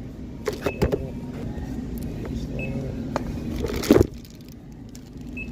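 Checkout counter sounds: three short high beeps like a barcode scanner, a few light clicks, and one loud knock about four seconds in, likely goods set down on the counter, over a steady low store hum.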